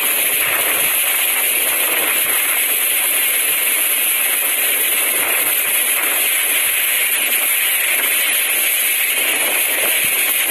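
Strong cyclone wind blowing, a steady loud rushing hiss with no letup.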